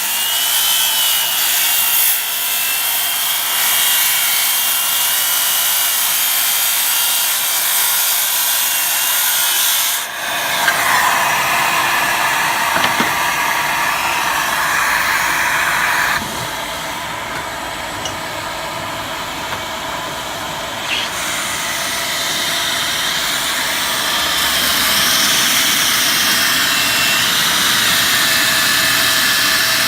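Circular saw ripping a wooden cabinet filler along a scribe line, its motor running continuously under load; the sound changes about ten seconds in, eases off for several seconds past the middle, and picks up again near the end.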